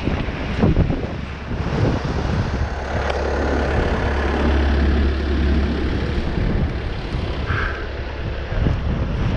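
Steady low rumble of a vehicle engine running, strongest about halfway through, with a few faint knocks.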